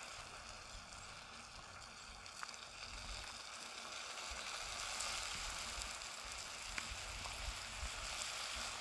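Food sizzling steadily in a small pan over a paraffin-wax buddy burner, with a low rumble underneath and a couple of faint clicks.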